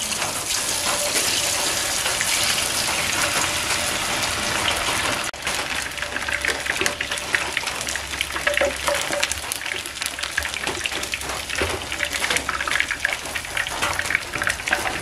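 Battered chicken chunks deep-frying in hot oil in a pan: a dense, steady sizzle that about five seconds in suddenly drops to a lighter crackle and popping.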